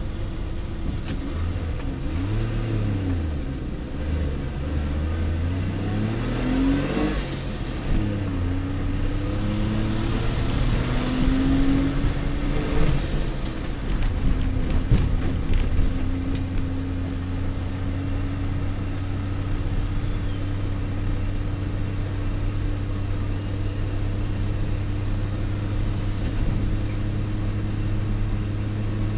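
DKW-Vemag Belcar's three-cylinder two-stroke engine heard from inside the cabin while driving. The engine note rises and falls through the gears in the first half, with a few short clicks around the middle, then holds steady while cruising.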